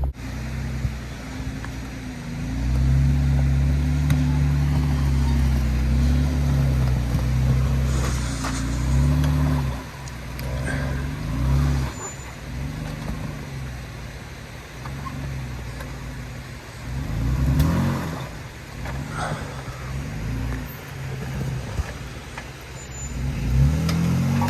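Jeep engine running under load at low speed over rough avalanche debris, the revs rising and falling repeatedly, with sharper rev-ups about two-thirds through and again near the end.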